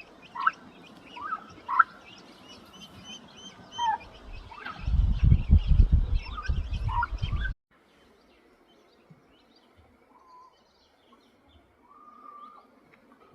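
Birds chirping and calling, with many short high chirps and some lower calls. A loud low rumbling noise comes in about five seconds in and cuts off abruptly with the chirping about halfway through, leaving fainter scattered calls.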